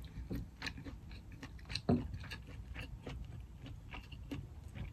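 Close-miked chewing of a mussel: soft wet mouth clicks and smacks, with a louder one about two seconds in.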